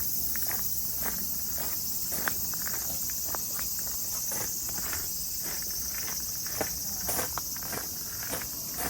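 Footsteps crunching along a path, about two a second and uneven, over a steady high-pitched chorus of insects.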